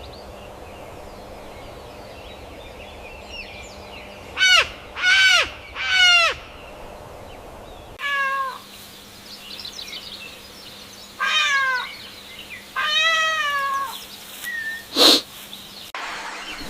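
A series of short, harsh, pitched animal calls, about six in all, coming in small groups with pauses between them. A sudden sharp sound comes near the end.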